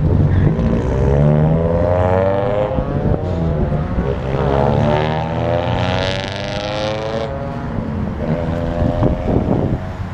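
Cars accelerating away one after another, their engine and exhaust notes rising in pitch as they rev up through the gears. The loudest, raspiest pass comes about six to seven seconds in.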